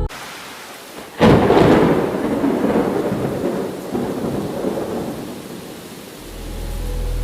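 Steady rainfall with a sudden loud thunderclap about a second in, rumbling away over several seconds. A low steady drone fades in near the end.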